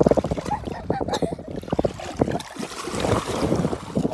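Sea water splashing and sloshing around the microphone in short irregular bursts, over a low rumble of wind on the microphone.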